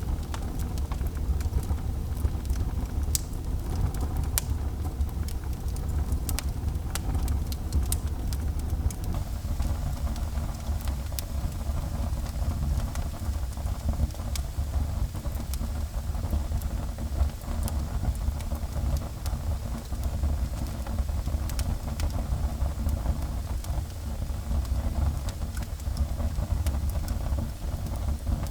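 Wood fire burning in a fireplace: a steady low rumble of flames with scattered sharp crackles and pops, more of them in the first several seconds.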